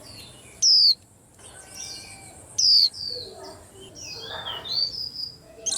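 White-eyes chirping: two loud, sharp high calls that sweep downward, about a second in and again near three seconds in, then a run of quicker twittering notes.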